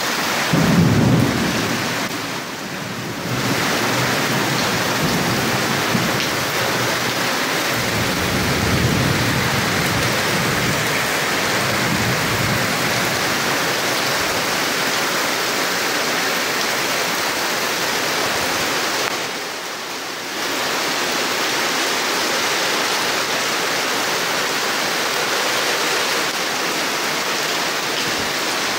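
Heavy rain pouring steadily on clay-tile roofs, with wind. A louder low rumble comes about a second in and softer rumbles follow about a third of the way through; the rain noise dips briefly twice.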